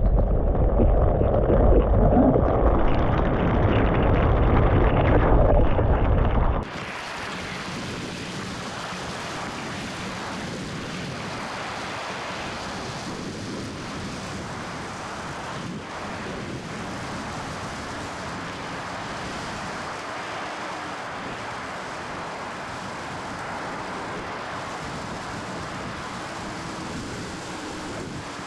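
Loud rumbling wind and water noise buffeting the microphone in the surf, ending abruptly about six seconds in. It gives way to a steady wash of ocean surf.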